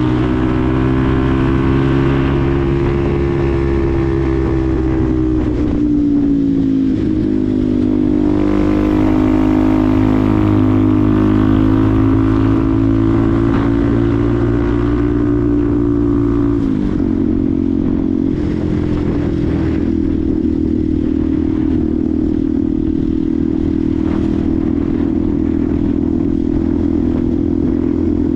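Benelli TNT 125's single-cylinder 125 cc four-stroke engine running under way, heard from the rider's position. The engine note sags and picks up again twice, about six seconds in and again about two-thirds of the way through, over steady road and wind noise.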